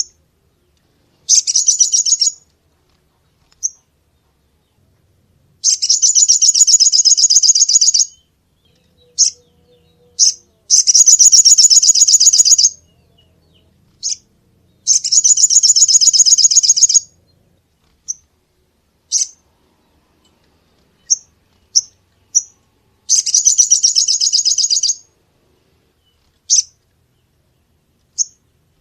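A small songbird singing in recorded bursts: five fast, high trills of about two seconds each, with single short chirps between them.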